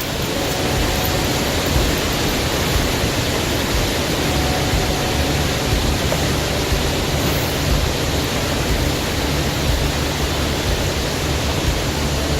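Steady, loud rush of water falling and cascading down a canyon waterfall.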